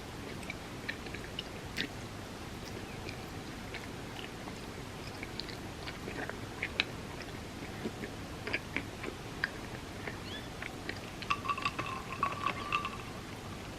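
Close-miked chewing and mouth sounds of a person eating soft desserts: scattered wet smacks and small clicks, busier in the second half, with a brief squeaky tone near the end.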